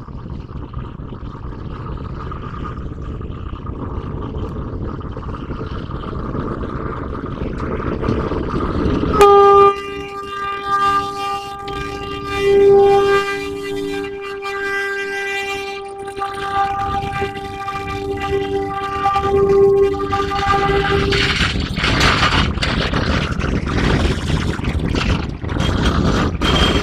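GE diesel-electric locomotive's engine running up louder, then its air horn sounding one long blast of about twelve seconds with several louder swells, giving way to engine and clanking running-gear noise as the train gets under way.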